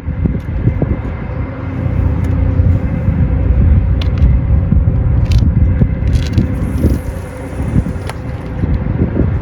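Strong wind buffeting the microphone: a loud, fluctuating low rumble, with a few sharp clicks and short hissy bursts.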